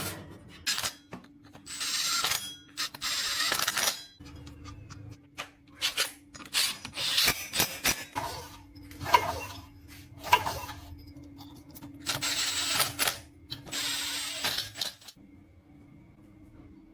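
Hand tools and metal engine parts being handled during a motorcycle engine repair: irregular clicks, knocks and rattles, with a few noisy bursts about a second long.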